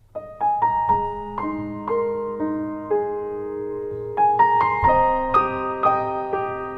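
Background piano music: gentle notes struck one after another and left to ring, with a quick rising run of notes about four seconds in.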